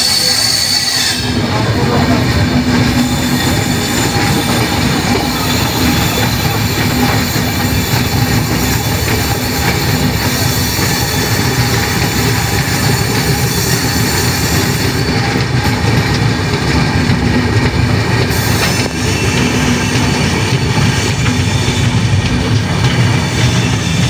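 A passenger train running over the rails, heard from inside the coach: a steady, loud wheel-and-track rumble. A high wheel squeal at the start fades about a second in.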